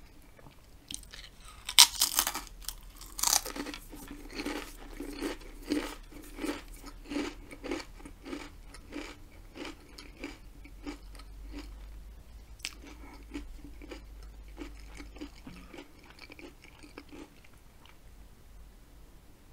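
Potato chip bitten with two loud crunches, then chewed in an even rhythm of crunching strokes, about two a second, that fade as the chip is chewed down.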